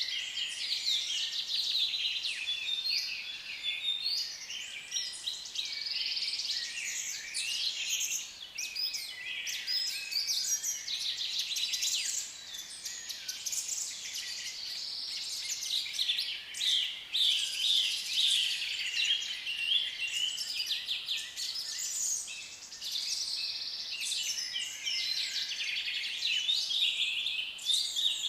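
A flock of African lovebirds chattering, many shrill chirps and calls overlapping without a break.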